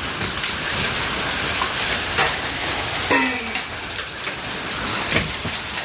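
Hail pelting down, a dense steady clatter of hailstones striking hard surfaces, with a few sharper single impacts standing out.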